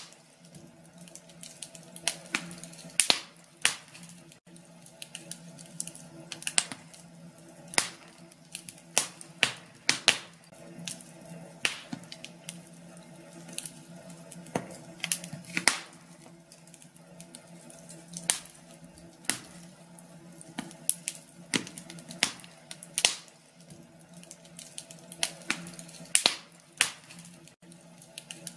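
Wood fire crackling in a fireplace: irregular sharp pops and snaps, a few a second and varying in loudness, over a faint steady low hum.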